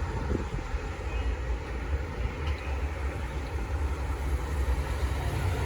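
V/Line passenger train running past with a steady low rumble and no horn sounding.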